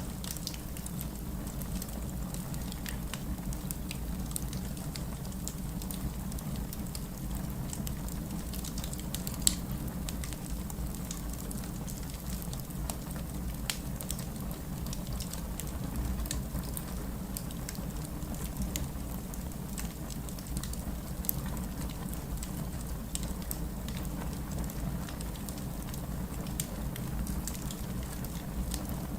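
Steady rain with a low rumble, overlaid with fireplace crackling: scattered small pops, one louder pop about nine seconds in and another near twenty-one seconds.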